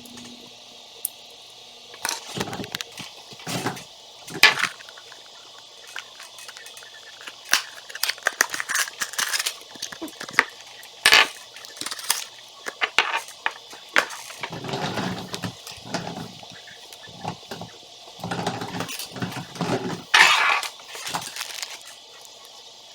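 Small construction-toy pieces being handled and put together: irregular clicks, clatters and rustling, with a few sharper clicks.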